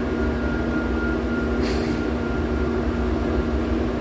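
Steady hum of workshop machinery running, with a constant low tone and rumble. There is a brief scrape or rustle about a second and a half in.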